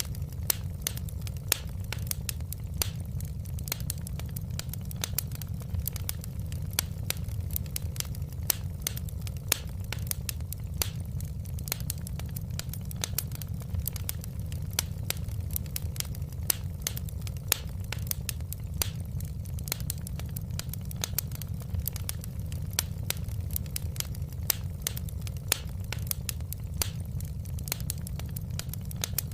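Fireplace fire crackling steadily: frequent sharp, irregular pops and snaps over a low, even rumble of the flames.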